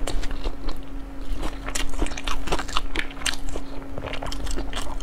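Close-miked chewing of sushi rolls into a lapel microphone: a quick, uneven run of sharp wet mouth clicks, over a faint steady hum.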